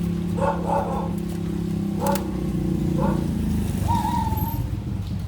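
A dog barking a few times in short sharp calls, then a drawn-out whine just before the end, over a steady low mechanical drone that turns rougher about two seconds in.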